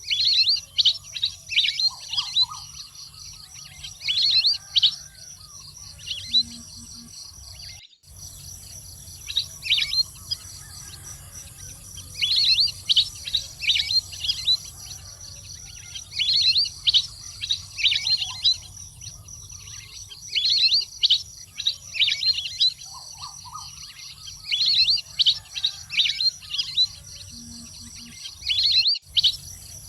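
Wild duck calls: repeated bunches of quick, high chirps that each slide downward, over a steady insect drone. The sound drops out briefly about eight seconds in and again near the end.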